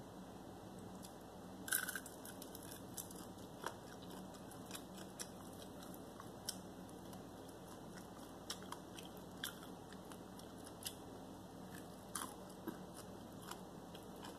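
A person biting and chewing fried chicken close to the microphone: scattered small crunches and mouth clicks, the sharpest about two seconds in, over a faint steady hum.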